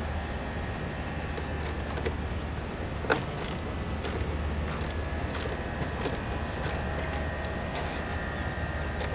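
Socket ratchet clicking in short bursts on the return strokes as a 10 mm socket loosens a car battery's positive terminal clamp nut, with a sharp metal knock about three seconds in. A steady low hum runs underneath.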